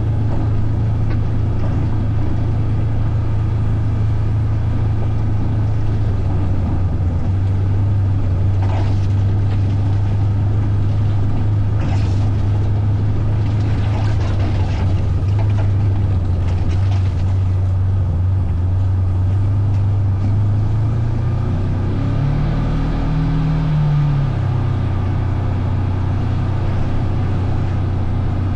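Engine of a vehicle being ridden, running steadily at a low, even pitch, revving up briefly about 22 seconds in and then settling back.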